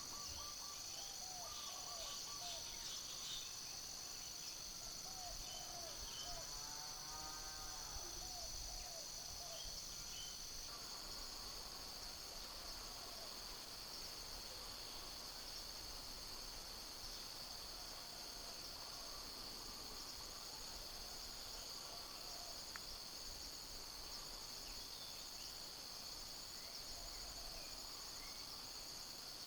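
Steady high-pitched insect chorus, with a thin continuous whine that drops out about ten seconds in. Short bird chirps are scattered through the first ten seconds.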